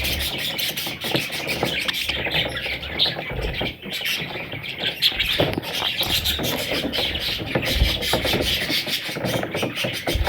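Budgerigars chattering and chirping continuously, a dense run of quick, overlapping chirps, with a few low thumps.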